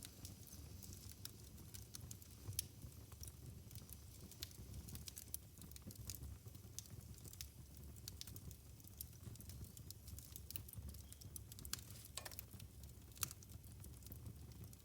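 Wood fire in a fireplace crackling: irregular sharp pops and snaps over a low steady rumble of burning, with a couple of louder pops.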